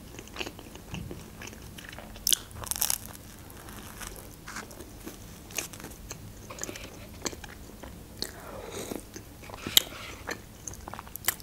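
A person biting and chewing crunchy food close to a clip-on microphone, with soft chewing throughout and a few sharp crunches, the loudest about two seconds in and again near the end.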